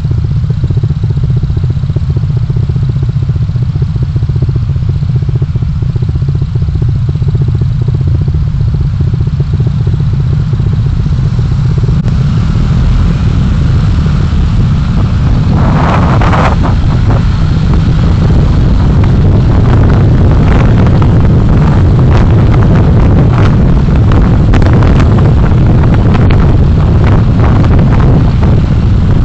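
Driving noise from a car on the road, recorded by a dashcam: a steady low rumble of road and engine. A brief louder rush comes about sixteen seconds in. After that the rumble grows a little louder, with scattered short knocks and rattles.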